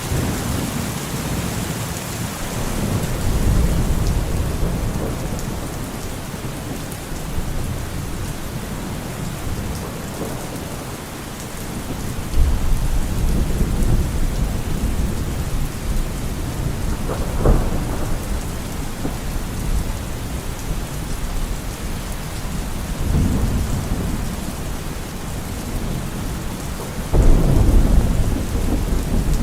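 Steady rain with low thunder rumbling again and again. There is a sharper clap about halfway through, and the loudest rumble comes near the end.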